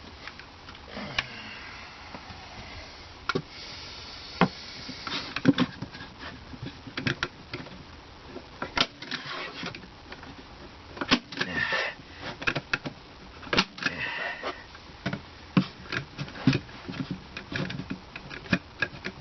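Irregular sharp clicks and knocks of stapling and tapping work into a plywood kicker board, coming in ones and short clusters with brief pauses between.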